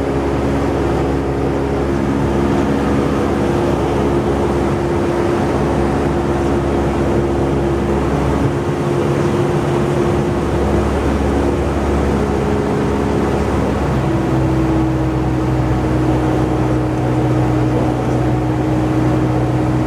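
Cessna 172's piston engine and propeller running steadily. About fourteen seconds in, the engine note shifts slightly to a new steady tone, a change in power setting.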